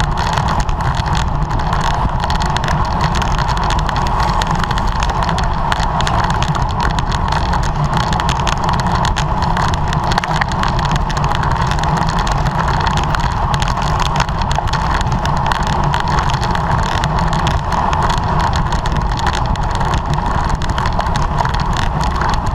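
Steady rush of wind and road noise from a racing bicycle at speed, with wind buffeting the rider's camera microphone.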